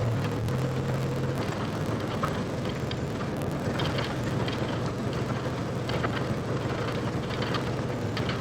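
Case 170B excavator's diesel engine running steadily under load as the machine travels on its tracks, with irregular light clanks and rattles from the undercarriage.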